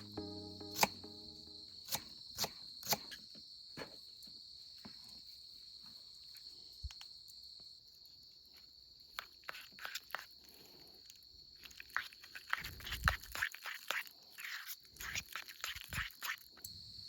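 Steady high insect chirring, crickets, with scattered sharp clicks and taps that grow busier in the second half.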